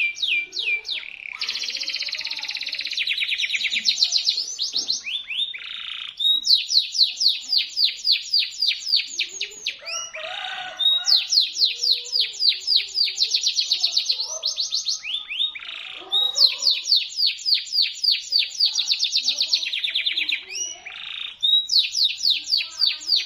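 Local canary singing in long, fast trills of high, shrill repeated notes. The phrases run a few seconds each, with short breaks between them.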